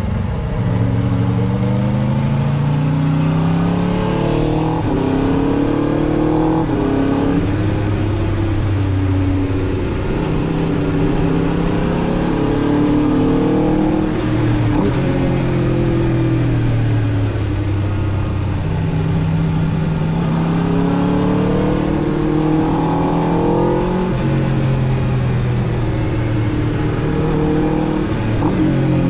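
Aprilia RSV4 RR's V4 engine through its stock exhaust, riding along. The pitch climbs and drops again and again as it accelerates through the gears and eases off.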